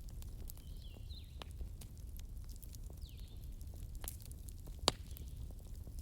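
Crackling wood fire: a steady low rumble of burning logs with scattered pops and crackles, and one sharp loud pop about five seconds in.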